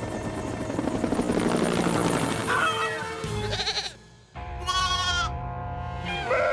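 Cartoon soundtrack: background music over a helicopter's steady whir, then goats bleating, one bleat standing out a little under five seconds in.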